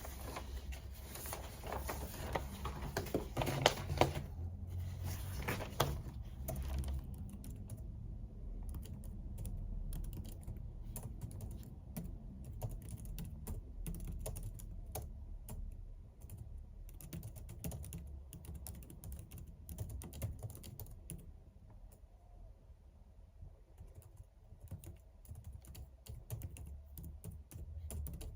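Typing on a computer keyboard: a steady run of key clicks, busiest and loudest in the first several seconds.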